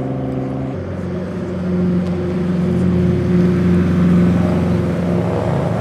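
A car engine held at a steady high rev, dropping abruptly to a lower, steady pitch about a second in.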